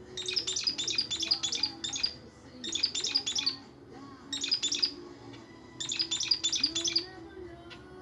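Budgerigar chirping in quick bouts of rapid high notes, four bouts of about a second each with short pauses between.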